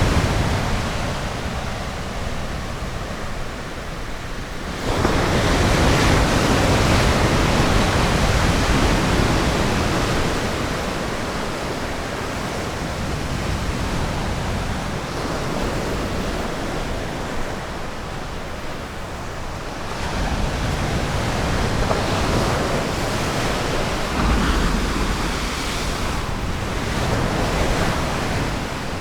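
Ocean surf breaking and washing up a beach, a steady rush of water that swells with each wave, including a swell about five seconds in, with some wind on the microphone.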